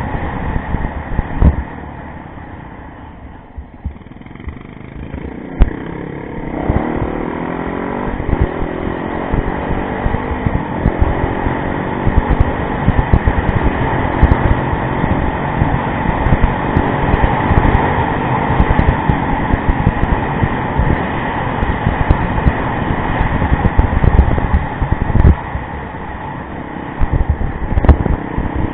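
Yamaha rally motorcycle engine running under way, dropping to low revs a couple of seconds in, then accelerating from about six seconds and holding a steady higher note, with heavy low rumbling buffeting throughout.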